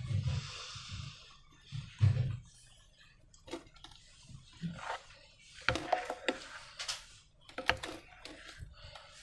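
Slime and rubber balloons handled by hand: irregular sticky clicks, crackles and squelches. There is a short hiss in the first second and a couple of soft low thumps in the first two seconds.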